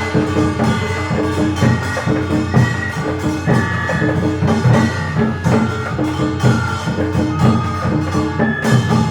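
Korean traditional orchestra playing: percussion keeps a steady beat under a melody of held high notes that change pitch every second or so.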